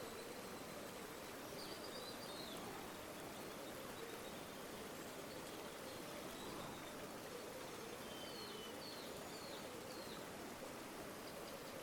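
River water flowing steadily. Faint bird chirps come in briefly about two seconds in and again a few times near the end.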